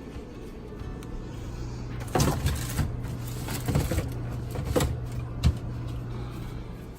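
Food containers handled and set down on refrigerator shelves: several knocks and clatters, the sharpest about five seconds in, over a steady low hum.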